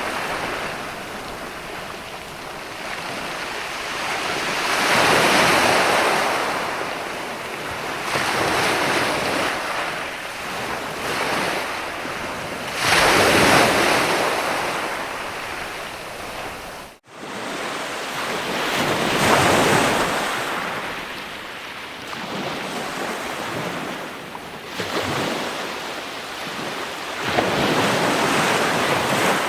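Ocean waves washing in, the surf swelling and fading in surges every six to nine seconds. There is a brief, sudden dropout about halfway through.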